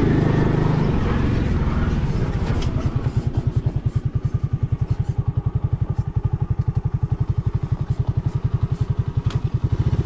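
Vehicle engine running steadily, then settling about three seconds in to an idle with an even chug of about ten beats a second.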